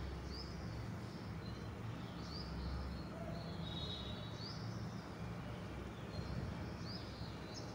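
Faint background: a steady low hum with short, high bird chirps about once a second.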